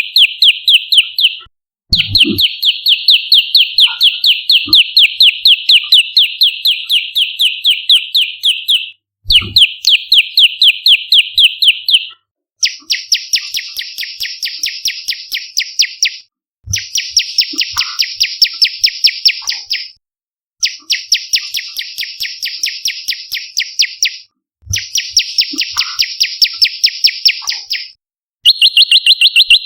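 Prenjak lumut calling in fast trains of sharp, repeated chirps, several a second, in bursts a few seconds long with short breaks between. From about halfway on, the notes turn harsher and cover a wider pitch range. It is a looped lure call (pancingan) for drawing in wild prenjak.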